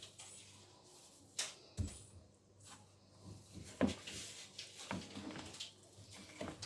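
A few light knocks and clicks, about five spread over several seconds: a utensil tapping against a bowl while fufu flour is added and mixed into water.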